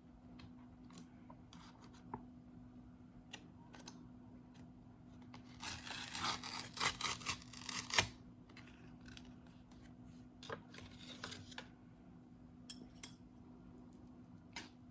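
Plastic instant-noodle packaging being handled and opened: a burst of crinkling and rustling lasting about two seconds in the middle, a shorter crinkle a little later, and small clicks and taps around them.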